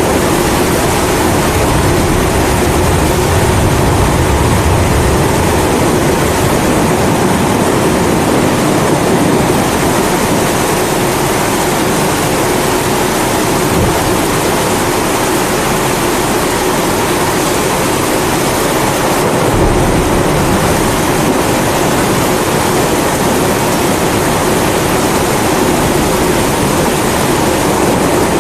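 Kerosene pressure stove (Primus-type burner) burning with a steady rushing hiss, layered with steady rain. Low rumbles of thunder swell a few seconds in and again about two-thirds of the way through.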